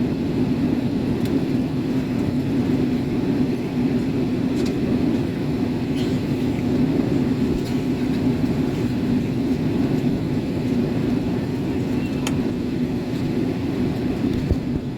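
Steady jet airliner cabin noise inside an Airbus A320 on approach to land: a constant low rumble of engines and airflow, with a few faint ticks.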